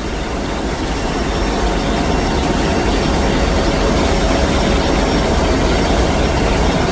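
Steady drone of a military transport plane's engines and rushing air, heard from inside its cargo hold, swelling slightly over the first second or two.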